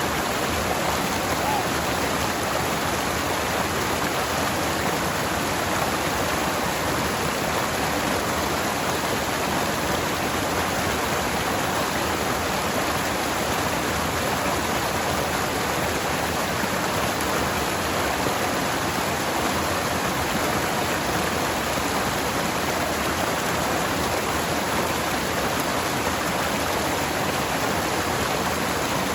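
Forest stream flowing steadily over rocks, a continuous even rush of water.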